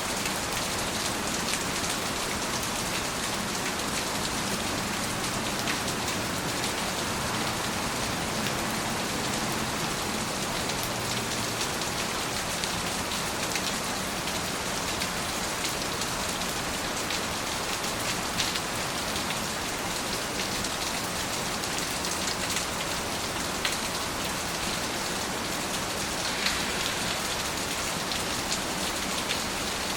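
Steady rain falling, an even hiss with scattered ticks of single drops landing close by.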